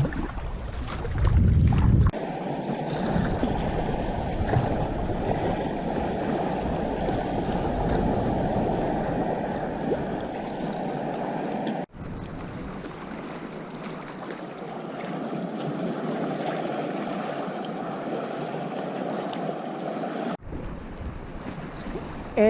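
Wind on the microphone and sea waves washing around a sea kayak in a swell, a steady rushing noise that breaks off abruptly twice where the footage is cut.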